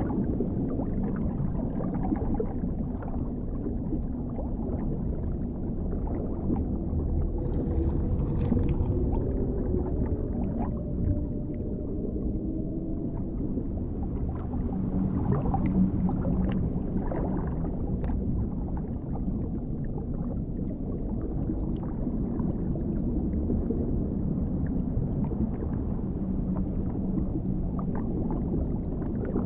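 Dark underwater ambience: a steady low rumble with scattered bubbling and gurgling. A few faint, drawn-out tones glide slowly in pitch about a third of the way through.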